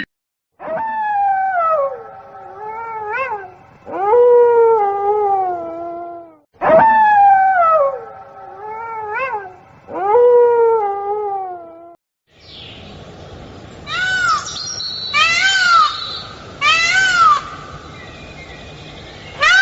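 Animal calls: a long, wavering, falling howl-like sequence that plays twice. Then a run of short rising-and-falling meow-like calls about once every second and a half, over a steady hiss.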